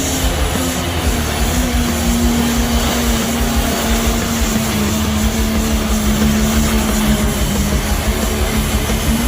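A pulling vehicle's engine running loud and steady under load, with a deep rumble and one steady humming tone that dips slightly about a second in.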